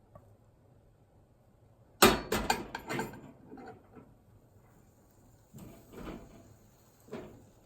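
Kitchenware being handled: a quick run of sharp knocks and clatter about two seconds in, then a few softer knocks near the end.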